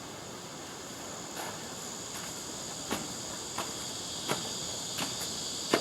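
A steady, high-pitched chorus of insects such as crickets, with about six footsteps spaced fairly evenly, starting about a second and a half in.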